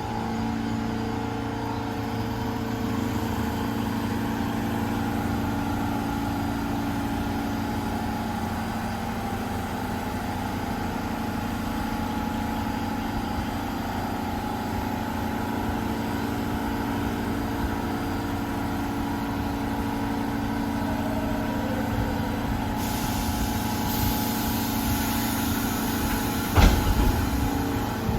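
New York City subway train standing in the station, its equipment giving a steady electrical hum with several fixed tones. A hiss comes in about three-quarters of the way through, and a single sharp clunk follows near the end.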